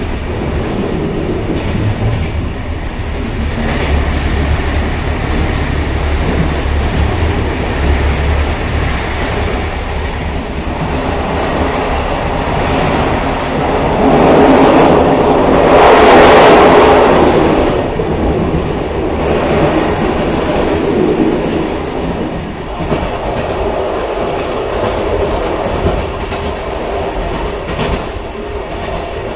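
Railcar running on the rails, a continuous train noise that swells louder for a few seconds about halfway through.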